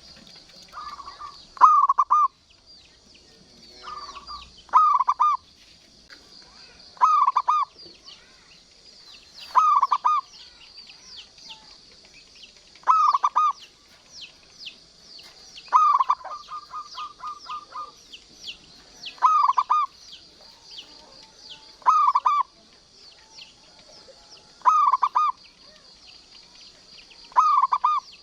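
Zebra dove (perkutut) singing its cooing song: about ten short phrases, one every two and a half to three seconds, with a quick run of repeated notes after one phrase in the middle. A constant high-pitched chirping runs underneath.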